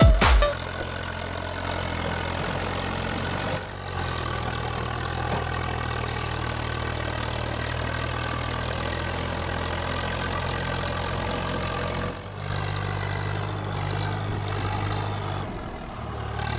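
A tractor engine running steadily at a low, even speed, heard in a few stretches that change abruptly where the footage is cut.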